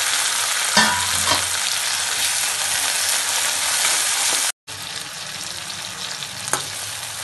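Chopped tomatoes, onion and green chilli sizzling in hot mustard oil in a metal kadhai, stirred with a metal spatula that scrapes against the pan a couple of times about a second in. The sizzle cuts out for an instant a little past halfway and comes back quieter.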